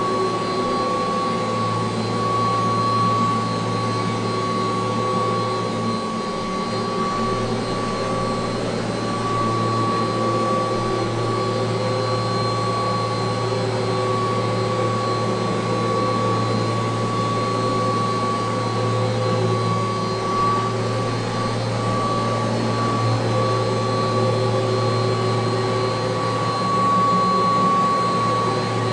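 1985 Kirby Heritage II (2HD) upright vacuum cleaner running steadily, a high whine over a steady motor hum.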